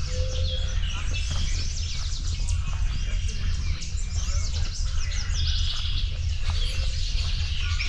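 Spring woodland bird chorus: several songbirds singing at once in dense, overlapping high chirps and trills, over a steady low rumble.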